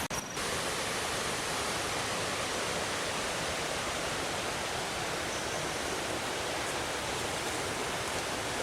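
Fast-flowing jungle stream rushing over rocks: a steady, even noise of running water.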